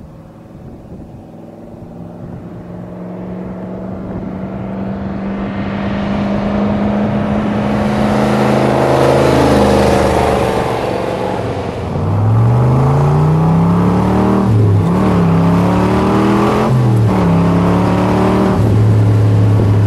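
1967 Corvette's 427 L71 V8 with side pipes, growing louder as the car approaches and drives past. It then revs up hard through the gears with two upshifts and settles into a steady cruise near the end.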